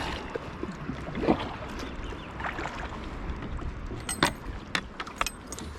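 Kayak on the water, with a steady low rumble of water and wind on the microphone, and a few sharp knocks a little past the middle.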